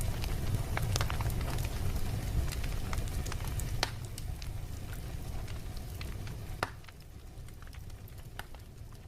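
Wood fire burning in a fireplace: a low steady rumble with scattered sharp crackles and pops, growing quieter in the second half.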